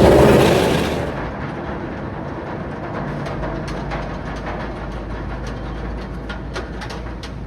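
A roller coaster train rushing past, loud at first and fading within about a second, followed by a steady low rumble with scattered light ticks.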